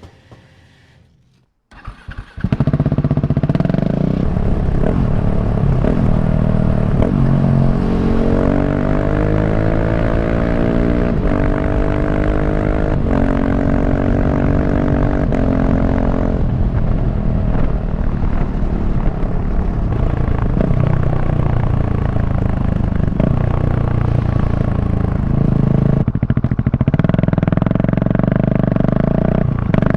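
Loud single-cylinder engine of a KTM 690 SMC R supermoto catching about two seconds in, then running loudly through its exhaust. Through the middle its pitch rises in a few steady climbs as the bike accelerates, then it settles.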